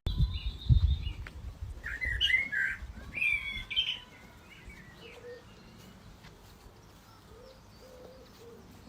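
A bird chirping, a few short warbling calls in the first four seconds, then only faint sound. A low rumble runs under the calls near the start.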